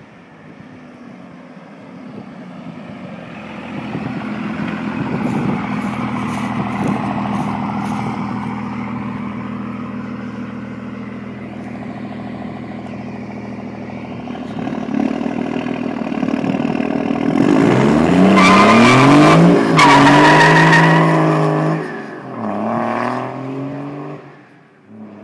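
2001 Dodge Ram 2500's Cummins 5.9-litre inline-six turbodiesel running through its exhaust, growing louder over the first few seconds. About two-thirds of the way in the engine is revved hard, its pitch climbing, briefly dropping and climbing again, then falling away, with a shorter rise and fall near the end.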